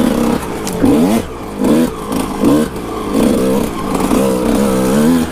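Kawasaki KX125 two-stroke single-cylinder dirt bike engine being ridden hard, its note rising and falling again and again as the throttle is opened and closed.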